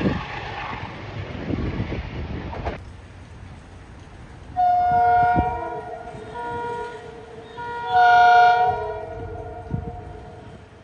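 Train air horn sounding a chord of several notes, in two long blasts a few seconds apart, the second the louder. Before it, a noisy rumble cuts off abruptly.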